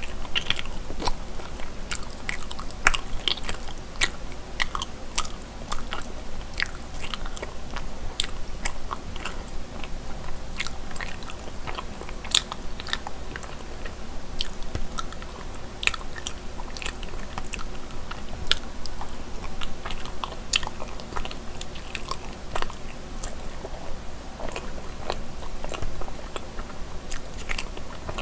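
Close-miked chewing of soft, sticky cream cheese mochi rice cake: a steady run of small wet mouth clicks and smacks, with a faint steady hum underneath.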